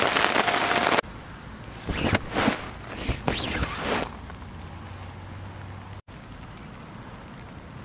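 Rain pattering on a camping tarp, cutting off abruptly about a second in; then a few short rustles and splashes as a hand pushes up on the underside of the wet tarp, followed by a faint steady low hum.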